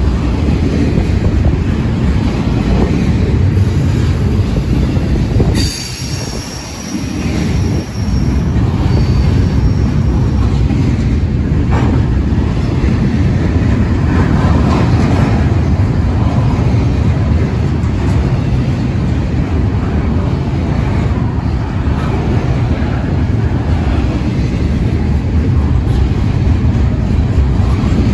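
Double-stack intermodal container well cars rolling past on the rails, a steady loud rumble of steel wheels on track. From about five and a half seconds in, a high, thin wheel squeal sounds for a few seconds.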